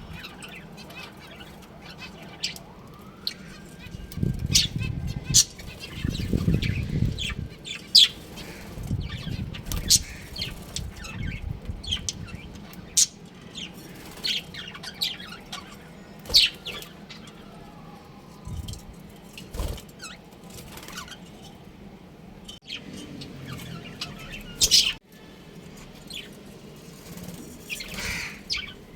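Budgerigars chirping in a cage, with many short, sharp calls scattered irregularly. There is wing flapping and rustling, densest in the first third.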